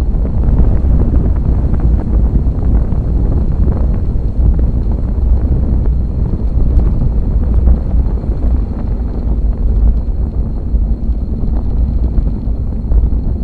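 Wind buffeting the microphone: a loud, continuous low rumble that rises and falls without pause.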